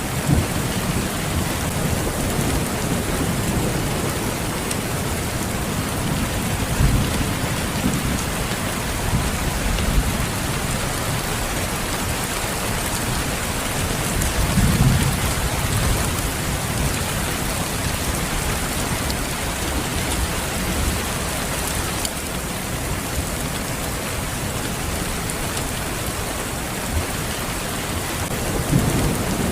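Steady rain falling, with low rumbles of thunder swelling a few times: near the start, about halfway through, and again near the end.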